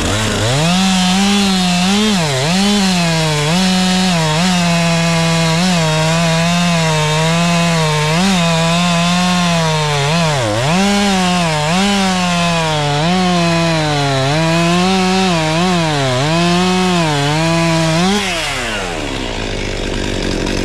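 Two-stroke chainsaw at full throttle cutting through wood, its pitch sagging again and again as the chain bogs in the cut and then recovering. About 18 seconds in the throttle is let off and the saw drops back to idle.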